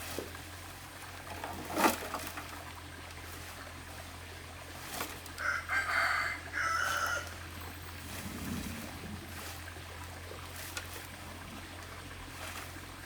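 A rooster crows once, about six seconds in, the call broken briefly near its end. A single sharp knock, louder than the crow, comes just before two seconds in, over a steady low hum.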